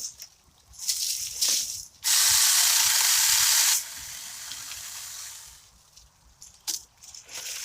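Cordless 20V mini chainsaw with a 4-inch bar cutting through branches while limbing a downed tree. It goes in short bursts, with one longer cut of about two seconds near the middle, followed by a quieter run that dies away.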